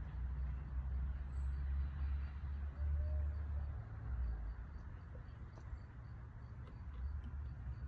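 Outdoor ambience: a steady low rumble, heaviest in the first half, with faint scattered clicks and chirps.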